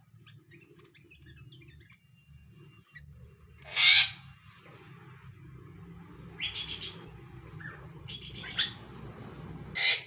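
Birds calling: a few faint chirps, then a loud harsh call about four seconds in, a rapid run of calls a couple of seconds later, and two more loud calls near the end.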